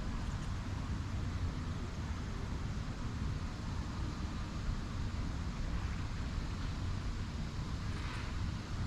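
Steady outdoor background noise: a low rumble with a hiss above it, and no distinct events.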